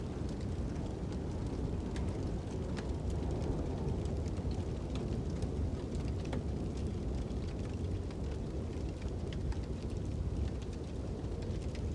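Fire crackling, with scattered sharp pops, over a steady low rumble of wind.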